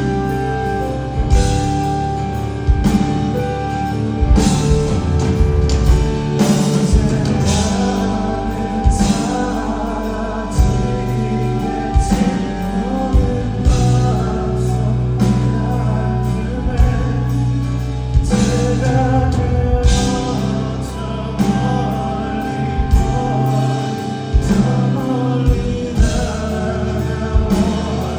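Live band music: a male singer over a steady drum beat, with bass and guitar.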